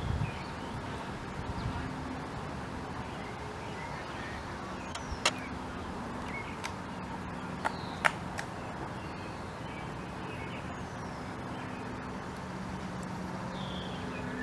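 Pileated woodpecker knocking at wood while foraging: a few separate sharp knocks, the loudest two close together in the middle, over a steady hum of distant traffic.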